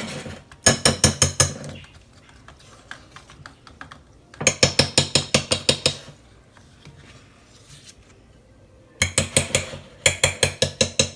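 A metal fork mashing cold, firm butter in a dish, clicking and scraping against the dish in rapid strokes. The strokes come in four quick bursts with short pauses between.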